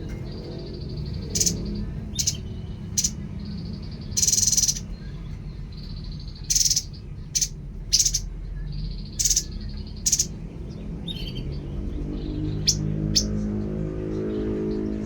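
Tepus (babbler) song used as a masteran recording: about a dozen short, sharp, loud calls at irregular intervals, one longer phrase about four seconds in.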